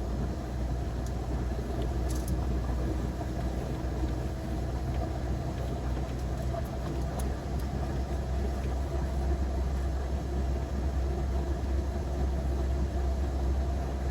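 Steady low mechanical hum of an airliner cockpit on the ground, with a few faint ticks.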